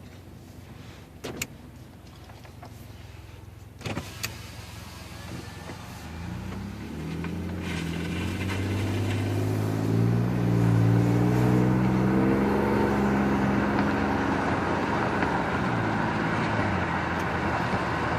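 Ford EcoBoost car engine running quietly with a couple of sharp clicks, then pulling away: from about six seconds in the engine note climbs in pitch and loudness and settles into a steady, louder run.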